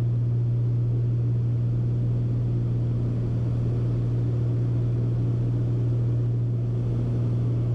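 Cabin noise of a Beechcraft Baron B55 twin-engine piston airplane in flight: a steady low drone from the engines and propellers over a wash of airflow noise.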